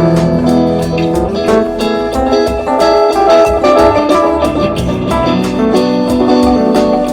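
Improvised instrumental jam led by guitar, with a stream of quick plucked notes over lower sustained notes.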